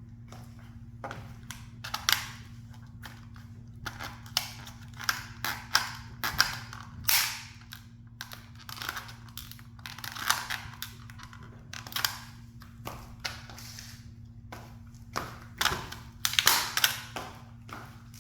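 A toy sports car being crushed under a high heel: irregular sharp cracks and crunches, a few a second, in clusters with short pauses between.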